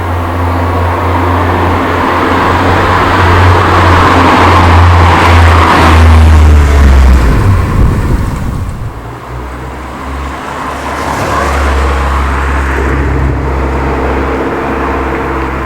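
MG TF's four-cylinder engine running through its aftermarket TT exhaust, heard onboard while driving: the exhaust note grows louder over the first seven seconds, drops away briefly about eight seconds in as the driver eases off, then builds again.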